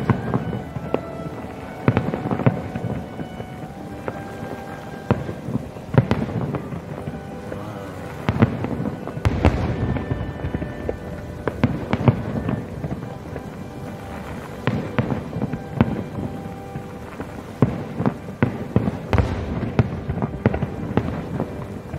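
Aerial fireworks shells bursting in an irregular run of sharp bangs, several close together at times, each followed by a short rumbling echo.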